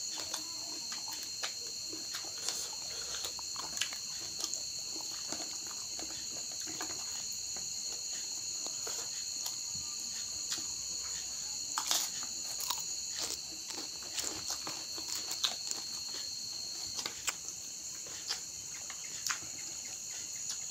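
A man eating with his fingers: close-up chewing and crunching with small wet clicks and smacks at irregular moments, a louder cluster of clicks about halfway through. Under it runs a steady high-pitched chirring of crickets.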